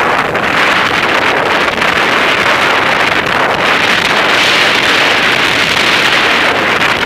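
Wind buffeting the microphone of a camera riding along on a moving bicycle: a loud, steady rushing noise that swells slightly about halfway through.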